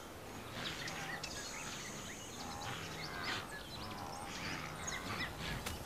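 Grassland ambience of many small birds chirping and calling in short repeated notes over a faint steady background.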